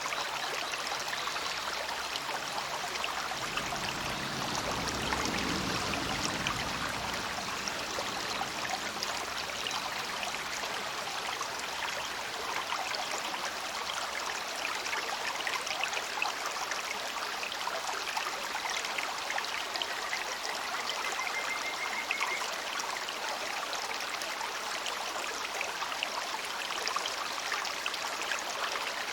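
Small river babbling steadily, an even rush of flowing water. A low rumble swells and fades about four to seven seconds in.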